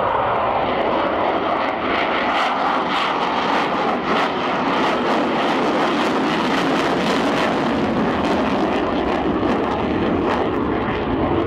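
An F-16 fighter jet and an AH-64 Apache helicopter passing together in a slow formation flyby: a steady, loud jet roar with a rapid, even beating of rotor blades running through it.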